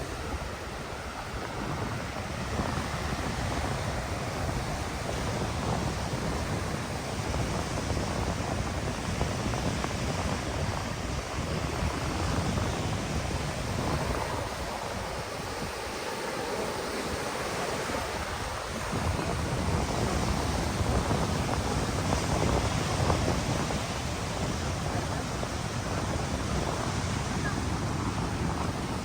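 Ocean surf washing onto a sandy beach, with wind buffeting the microphone in a low rumble that eases for a few seconds about halfway through.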